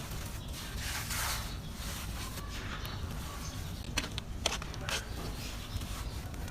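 Dry, grainy red dirt crumbling, with bursts of crunchy hiss and a few sharp cracks around four to five seconds in, over a steady low rumble.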